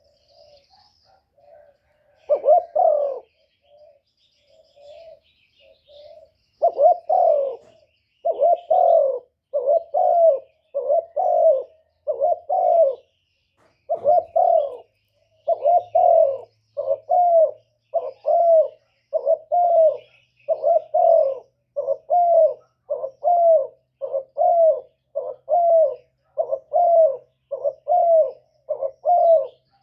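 Spotted dove cooing: a long run of short, low coos at about one a second, softer and more scattered in the first few seconds. This is the bowing 'gù' coo that keepers play to stir wild doves into answering.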